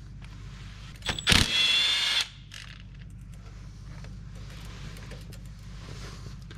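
Cordless drill running in one burst of about a second, starting about a second in, backing out a bolt.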